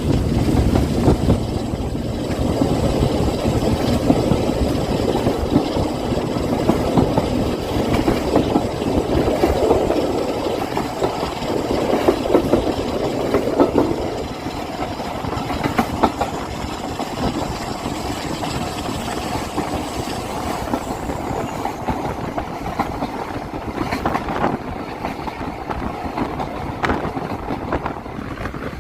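Heritage diesel train with a Class 47 locomotive running, the engine's rumble mixed with the clatter of wheels on the rails; it gets quieter about halfway through.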